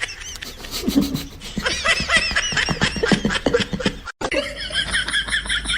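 People laughing: quick, high-pitched giggling and snickering in rapid bursts, broken by an edit cut about four seconds in, after which the laughter goes on.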